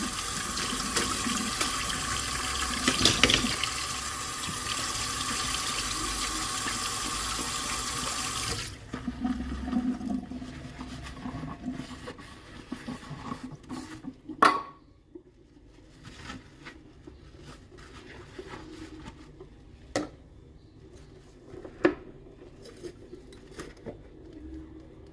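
Kitchen tap running steadily into a sink, cut off abruptly about nine seconds in. Then quieter handling of washed dishes with a few sharp clinks, the loudest a little past the middle.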